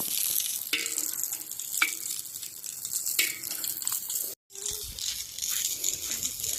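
Maandazi dough deep-frying in hot oil, a steady crackling sizzle, with a few faint knocks; the sound drops out for an instant about four seconds in.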